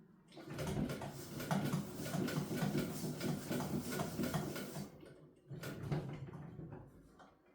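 Domestic sewing machine running and stitching in a fast clatter, in two runs: a long one of about four seconds, then after a short pause a shorter one of about a second and a half.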